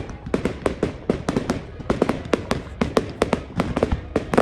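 Fireworks display going off: a rapid, irregular run of bangs and crackles, several a second, with a loud bang near the end.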